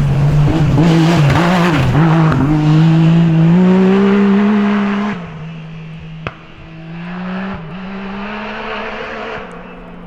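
Stage rally car engine at high revs passing close. Its pitch wavers quickly under the throttle, then climbs. The engine note drops sharply about five seconds in, and the car runs on more quietly, with one sharp click and another climb in revs before it fades.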